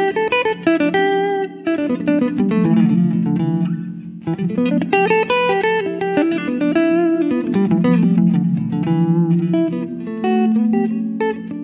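Electric guitar played through the Poly Effects Poly Verbs reverb pedal: quick runs of picked notes over held lower notes, each note trailing off in reverb, with a brief lull about four seconds in.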